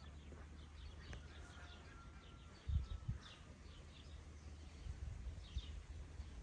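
Small birds chirping again and again in short falling notes, over a steady low rumble, with a couple of dull low thumps about three seconds in.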